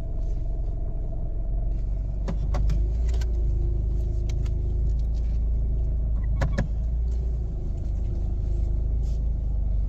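Car engine running with a steady low rumble while the car creeps along, with a faint hum and a few short clicks.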